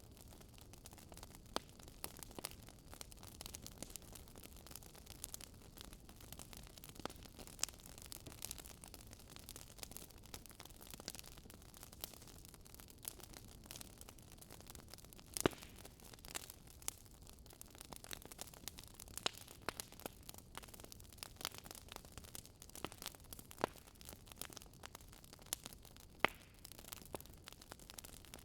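Fireplace fire crackling: irregular snaps and pops, a few sharper than the rest, over a low steady hiss.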